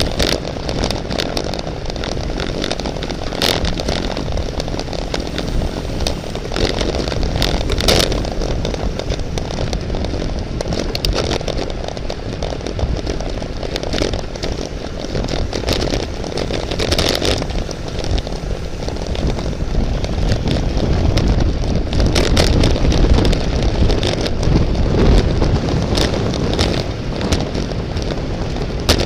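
Steady wind rush and road noise from riding a racing bicycle at speed, with a few sharp clicks scattered through.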